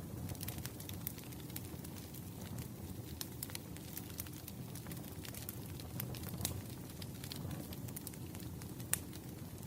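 Wood fire crackling: irregular sharp pops and snaps over a steady low rumble, with a louder pop about nine seconds in.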